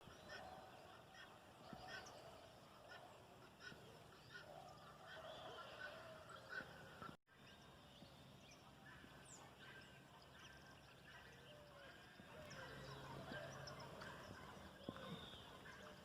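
Faint chorus of birds calling: many short chirps and curved whistles overlapping, with a brief break about seven seconds in.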